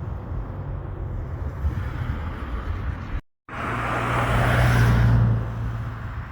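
Airliner engines running: a steady rumble with wind on the microphone, then after a sudden cut about three seconds in, louder engine noise with a low steady hum that swells and then fades as the aircraft goes by.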